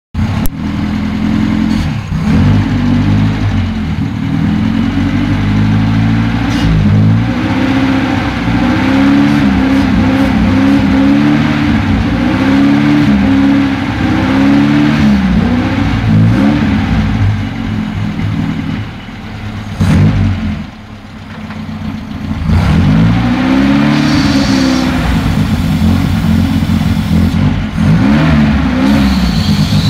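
Toyota 3T four-cylinder engine running and being revved up and down over and over by hand at the carburetor during a carb cleaning. About two thirds of the way through the revs drop to a low, unsteady idle for a couple of seconds, then it is revved again.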